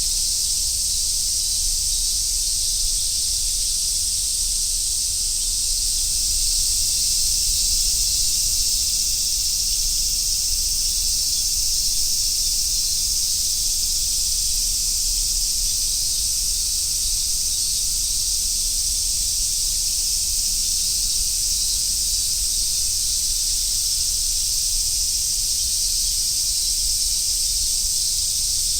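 Dense chorus of summer cicadas, such as large brown cicadas and robust cicadas, making a steady high-pitched sizzling buzz without let-up, over a faint low rumble.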